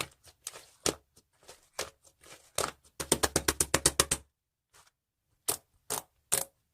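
Slime being pressed and squished by hand, giving sharp wet clicks and pops: scattered at first, then a quick run of about ten clicks a second around the middle, a short pause, and a few single pops near the end.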